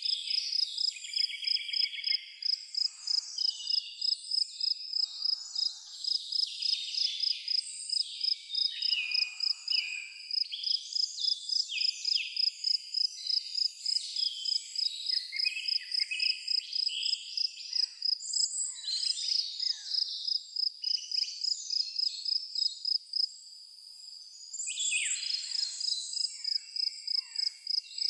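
A cricket chirping in a steady, even rhythm of about three high chirps a second, with several birds singing varied songs over it. The cricket pauses for a second or so late on, then resumes.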